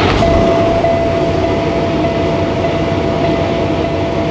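Diesel semi-truck engine running just after starting, a steady rumble, with a single steady warning tone sounding over it: the low air pressure warning, since the brake air has been pumped down and the compressor is only beginning to build air.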